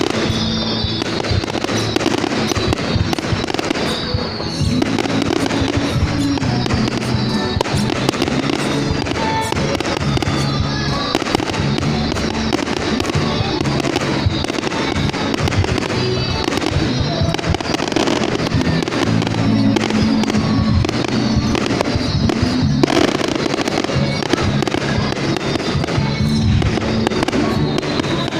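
Fireworks display going off in a dense, continuous barrage of bangs and crackles, with short whistles falling in pitch, over steady music.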